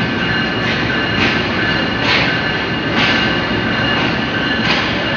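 Subak Kharam passenger train rolling slowly along a station platform, heard at an open coach door: a steady rumble of the coach, with the wheels clacking over rail joints roughly once a second and a steady high squeal from the wheels as the train slows to arrive.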